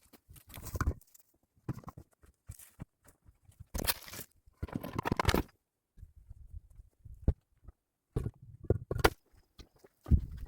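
Stones being handled and set in place: irregular knocks of stone on stone and short scrapes, with two longer scraping sounds near the middle.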